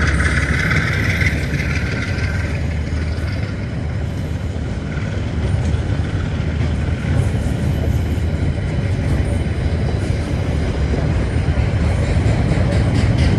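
KiwiRail DX class GE diesel-electric locomotive passing with a steady, heavy low engine rumble. A high squeal fades out in the first couple of seconds, and near the end the wheels click rhythmically over the rail joints.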